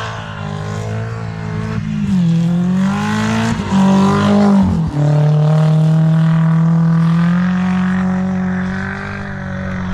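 Mercedes-Benz W203 C-Class Kompressor's supercharged four-cylinder engine revving hard while the car drifts on an ice track, its pitch swinging up and down with the throttle. It passes close just before five seconds in, the pitch dropping, then holds steady high revs as it drives away.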